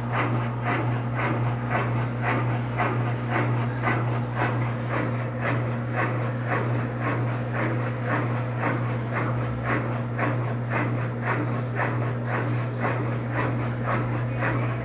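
Electrolux LTD13 13 kg washing machine winding down from its final spin: a steady low motor hum with a rhythmic swish from the turning drum, about three pulses a second.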